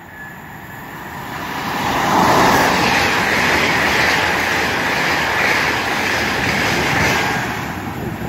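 LNER Azuma express train running through the station at speed without stopping. It is a rush of wheels on rail and moving air that swells over the first two seconds, holds steady, then starts to fade near the end.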